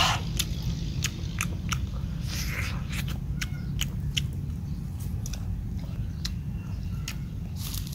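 A person chewing and biting into roasted chicken, with many irregular sharp wet mouth clicks over a steady low hum.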